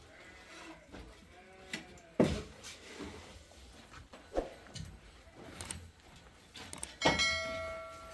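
Scattered knocks and clatter of handled objects. About seven seconds in comes a sharp strike that rings on with a clear tone for about a second.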